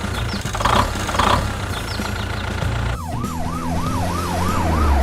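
A low engine rumble, then about three seconds in an emergency-vehicle siren starts, wailing quickly up and down about three times a second. It is a cartoon sound effect.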